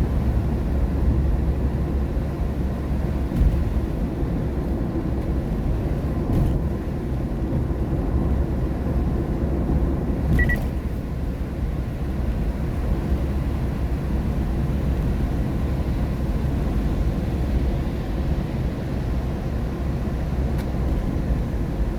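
Steady low road and tyre rumble inside the cabin of a car driving on a rain-wet road, with a few faint clicks.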